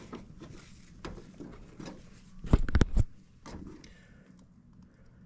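Handling clicks and light knocks as a new capacitor is fitted into a furnace, with a quick cluster of sharp knocks about two and a half seconds in.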